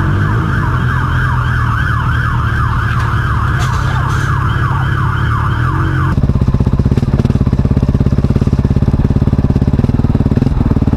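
An emergency-vehicle siren in a fast yelp, about three sweeps a second, over a running engine. About six seconds in, the siren cuts off abruptly and a motorcycle engine running with a rapid, low pulsing takes over.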